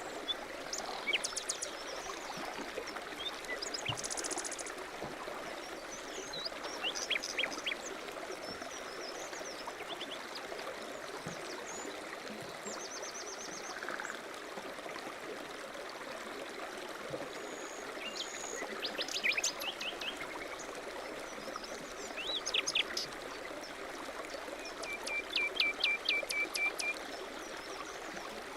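A steady babbling stream, with small songbirds chirping and giving short, rapid trills every few seconds over it.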